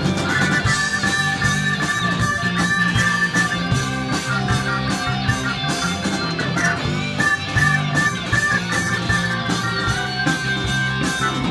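Live rock band playing an instrumental section: a lead electric guitar plays long held, bending notes over drums and bass.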